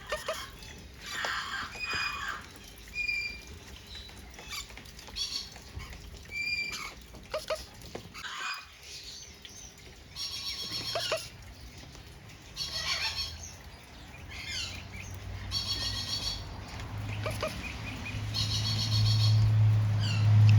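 Parrots calling: repeated harsh squawks and short whistles, one after another. A low steady hum comes in during the second half and grows louder near the end.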